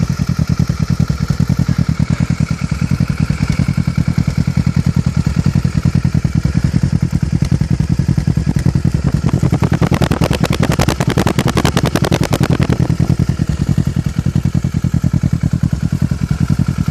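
Kawasaki Ninja 650's parallel-twin engine idling, warmed up, through a Two Brothers full-system aluminium exhaust: a loud, steady, evenly pulsing exhaust note. About ten seconds in, a rattling clatter sounds over it for a couple of seconds.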